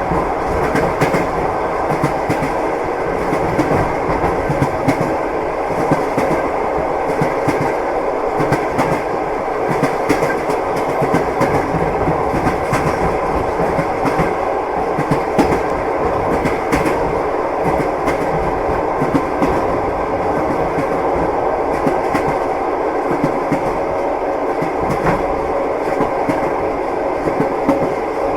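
Train wheels clattering over the rails, heard from inside a moving passenger carriage: a steady rumble with frequent knocks.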